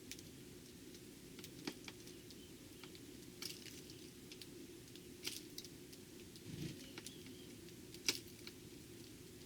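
Irregular sharp taps and clicks, typical of Eurasian tree sparrows pecking at seed, over a faint steady low hum, with a soft low thump about two-thirds of the way through.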